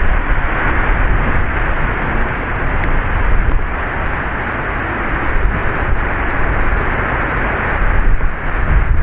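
Heavy rain pouring down in a thunderstorm, with gusty wind buffeting the microphone in uneven low rumbles; the downpour swells a little and eases several times.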